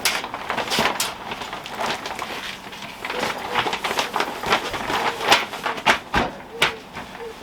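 Handling noise as a portable 12 V fridge is lifted out of its packing and worked into its insulated fabric cover: rustling with a quick, irregular run of clicks and knocks.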